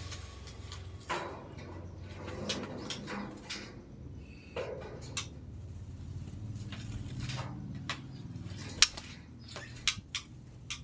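Small birds chirping now and then and moving about, with scattered light taps and clicks over a steady low hum.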